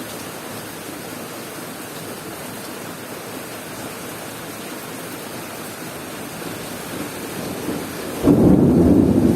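Steady rain falling, then about eight seconds in a sudden loud low rumble of thunder breaks in over it and keeps rolling.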